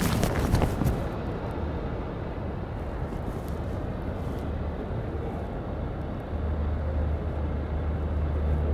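Steady low outdoor rumble with a few sharp clicks in the first second; the low hum grows a little louder about six seconds in.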